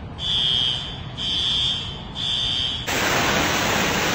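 An electronic alarm beeping, three high-pitched beeps about a second apart. Near the end it cuts off abruptly into a steady rushing noise of water.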